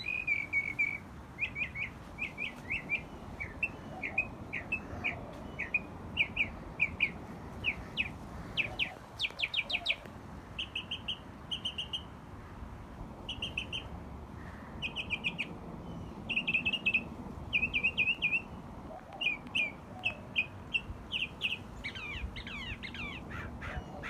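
A small bird calling: a long run of short, high chirps, single notes and quick clusters of two to four, with a burst of rapid falling notes near the end. A low steady rumble lies under it.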